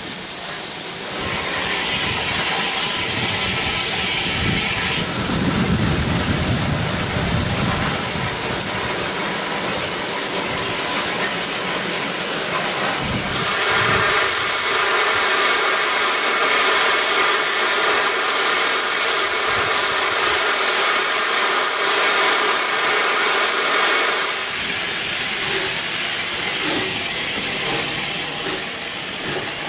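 Steam locomotive venting steam in a long, steady hiss that grows louder about halfway through and eases off again a few seconds before the end.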